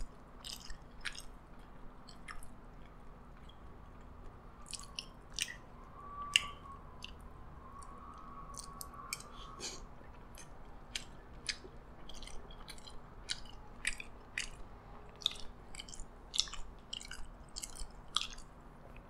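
Close-miked chewing with the mouth closed: an irregular run of small mouth clicks and smacks as food is chewed.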